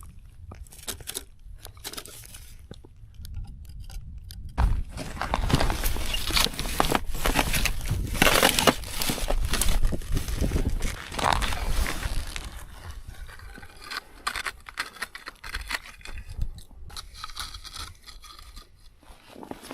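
Footsteps crunching through snow on river ice, heaviest in the middle stretch, then quieter scraping and crackling.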